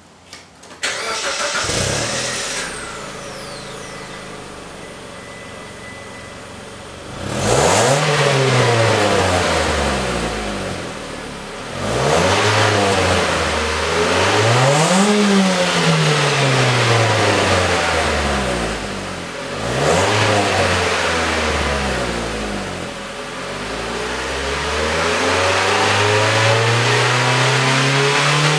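2008 Mitsubishi Lancer's 2.0-litre MIVEC inline-four, on its stock exhaust, starting up about a second in and settling to idle. It is then revved several times, the pitch rising and falling with each rev, and the last rev is held longer near the end.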